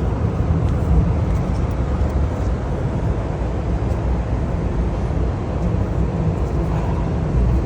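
Steady low rumble, with no speech over it.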